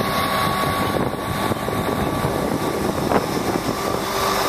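Steady vehicle engine and mechanical drone with a faint steady whine, and a single short knock about three seconds in.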